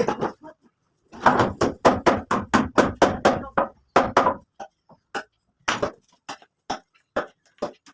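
Repeated sharp strikes on wood, like hammering: a fast run of about four blows a second, then slower, spaced single blows.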